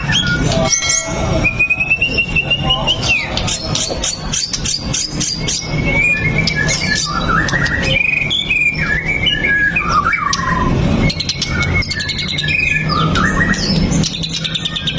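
White-rumped shama (murai batu) singing without a break: a varied run of whistled phrases that glide up and down, mixed with quick clicking, rattling notes.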